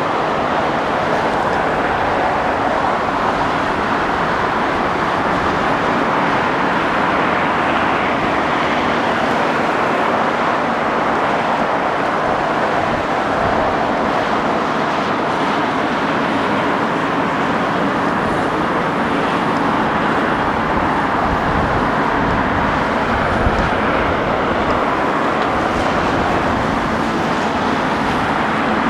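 Steady noise of the twin GE90 jet engines of a Boeing 777-300ER, holding an even level with no rise or fall.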